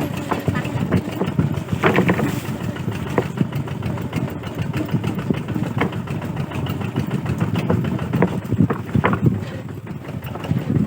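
Kubota RT140 single-cylinder diesel engine running, a fast, even chugging with a few louder beats.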